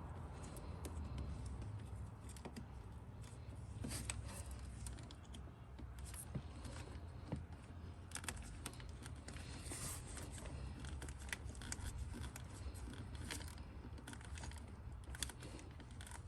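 Scattered light metallic clicks and taps of hand tools and small bolts being worked by hand in the engine bay, over a steady low hum.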